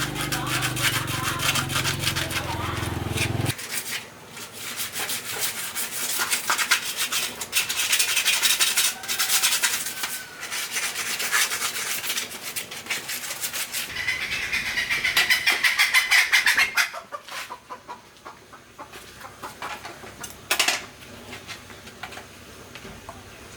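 Rapid, repeated rubbing and scraping strokes, like a part being scrubbed or sanded by hand. A steady low hum cuts off suddenly about three and a half seconds in, and the strokes thin out in the last few seconds.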